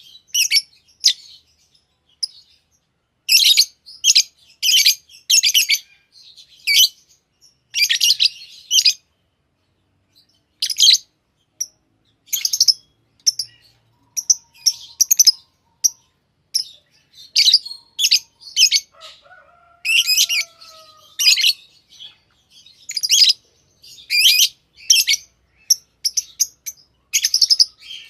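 A brown bird chirping over and over: quick, high, bright chirps in short bursts every second or two, with brief pauses between bouts.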